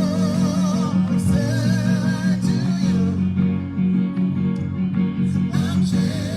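Church music with guitar over a steady, heavy low end, and a melody line wavering in pitch above it.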